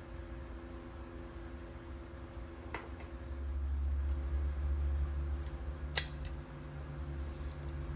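Steady machine hum made of several fixed tones, with a low rumble that swells about three seconds in and eases off again, and two sharp clicks.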